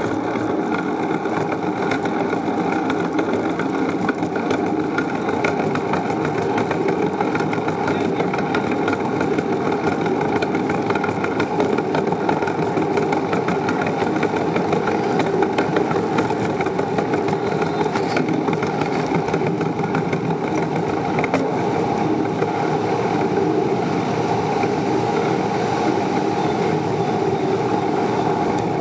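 Steady, unbroken rumble of a bicycle in motion: tyre and road noise mixed with rattle, with no pause or change in level.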